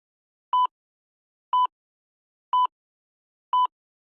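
Quiz countdown timer sound effect: short, steady electronic beeps, one each second, four in a row with silence between.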